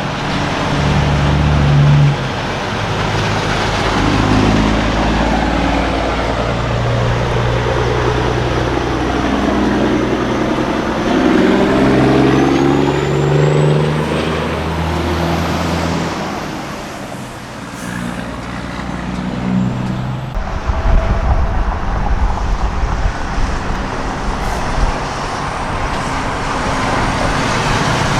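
Diesel semi trucks driving past one after another, their engine notes rising and falling as each goes by. About two-thirds of the way in, a deeper, rougher exhaust rumble takes over.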